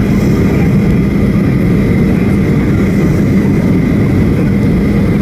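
Steady cabin noise inside a Boeing 737-800 airliner: a low, even rumble of its CFM56 jet engines and airflow, with a faint steady whine above it.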